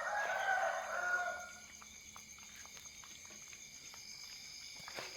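A rooster crowing once, a single call of about a second and a half.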